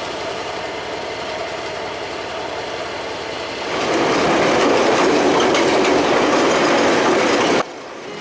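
Train noise from a DJ class diesel locomotive and its excursion train: a steady rushing running sound that grows clearly louder about four seconds in and cuts off suddenly near the end.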